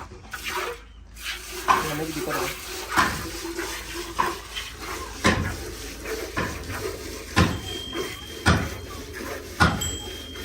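Milk squirting by hand from a cow's teats into a metal pail, in sharp strokes about once a second.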